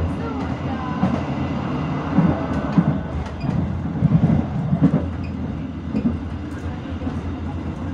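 Inside a moving economy-class passenger train coach: the steady low rumble of the wheels on the track, with irregular knocks and clicks as the wheels cross rail joints.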